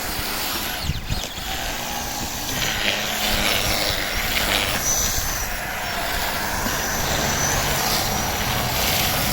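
Radio-controlled truck driving in snow: its small electric motor and gears whining, with a high whine around the middle.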